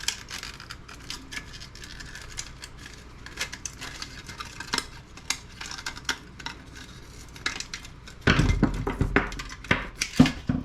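Scattered clicks and clinks of small hard parts and tools being handled as a CRT monitor's deflection yoke is pulled apart, with a louder run of clattering knocks and a thud about eight seconds in.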